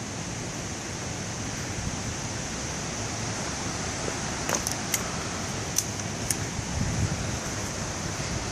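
Steady wind noise on the microphone, a low rumble under a constant hiss, with a few faint short high ticks about halfway through.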